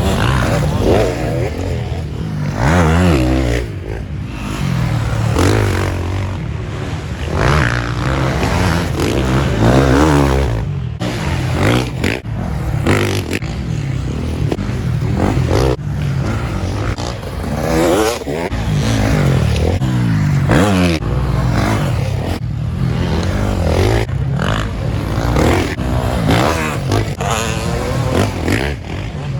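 Several motocross dirt bike engines revving hard and shifting as the bikes race around the track, the pitch rising and falling over and over.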